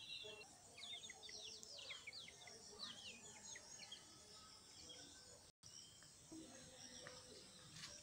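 Birds chirping: a quick run of high, falling chirps over the first few seconds, then a few fainter calls.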